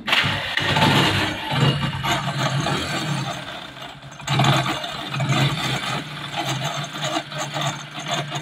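Hero HF Deluxe's single-cylinder engine running with a very bad mechanical noise, as if it is about to break, getting louder about four seconds in. The noise comes from inside the magneto cover: the electric-start one-way clutch has worked loose, its bolts backed out and rubbing as it turns.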